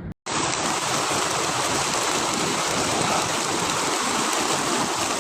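Loud, steady rushing of water, such as floodwater or a torrent, starting abruptly after a brief moment of silence at the start.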